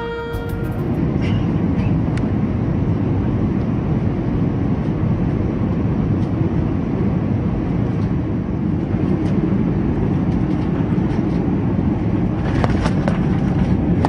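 Steady rumble of an airliner cabin in flight or on approach, with a few faint clicks and a cluster of sharper ticks near the end.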